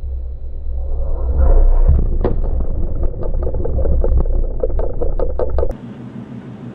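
Rocket-motor rumble of a Naval Strike Missile launch, with a run of sharp crackles from about two seconds in, cutting off suddenly near the end to a quieter hum.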